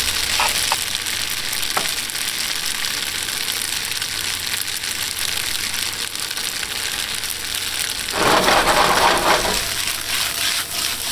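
Shrimp and scallop pasta sizzling in a pan, a steady frying hiss with a louder rush about eight seconds in lasting a second or so.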